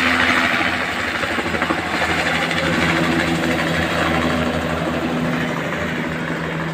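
Helicopter running steadily, its engine and rotor making a continuous mechanical noise with a low steady hum.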